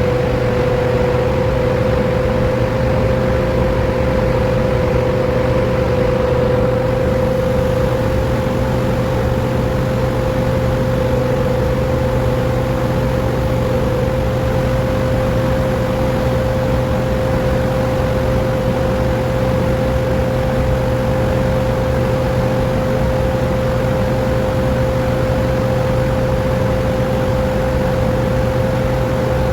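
A 100HP electric motor driving a grinder machine, running steadily with a constant high hum over a low drone and machine noise.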